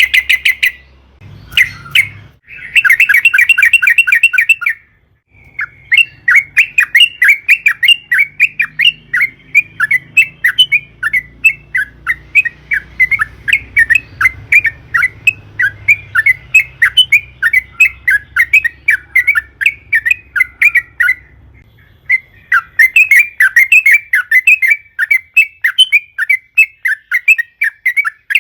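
Yellow-vented bulbul (trucukan) calling a long, rapid run of loud, bubbly chattering notes, a few per second and unbroken for many seconds, pausing briefly near the start and again about three quarters of the way through.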